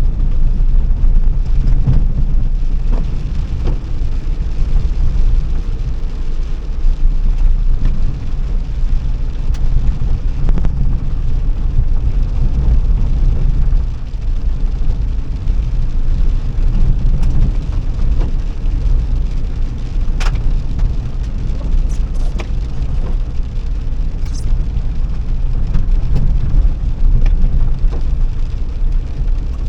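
Car on the move: a steady low rumble of engine and road noise, with a few brief clicks in the latter part.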